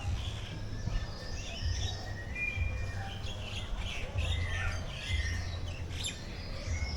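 Several birds chirping and calling at once, in many short, overlapping notes, over a low rumble.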